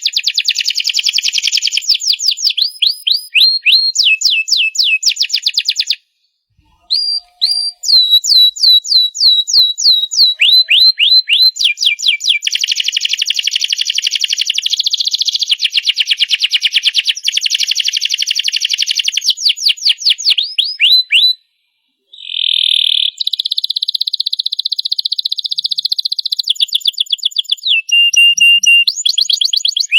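Domestic canary singing a long song of rapid repeated chirps and fast trills, high-pitched, breaking off briefly twice.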